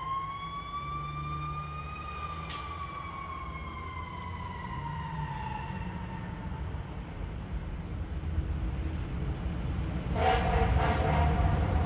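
A fire engine's siren winds down in one long, slowly falling wail that fades out, over the steady low rumble of the truck's engine. Near the end the rumble grows louder and a steady buzzy tone joins it.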